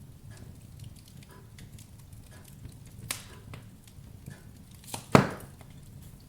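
Wood fire burning in a fireplace: a low steady rumble with light crackling, a sharp pop about three seconds in and a louder pop a little after five seconds.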